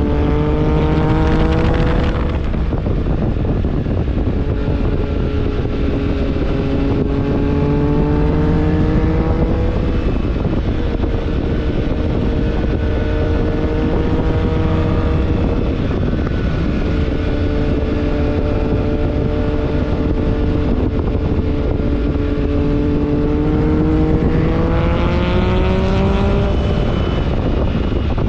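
BMW R1300GS Adventure's 1300 cc boxer-twin engine running under way, its note climbing gradually and falling back about four times, over a steady rush of wind.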